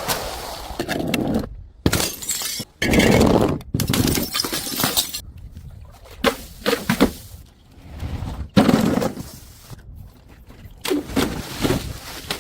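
Glass bottles smashing one after another, several separate crashes each followed by shards rattling and clinking.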